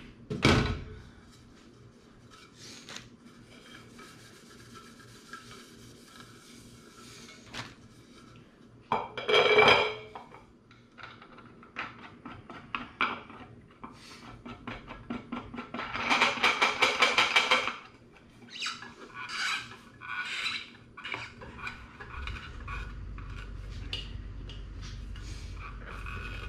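Metal tools and parts clinking and clattering, with a knock about half a second in, a loud clatter about nine seconds in and a fast rattle of quick strokes around sixteen to seventeen seconds. A low steady hum comes in near the end.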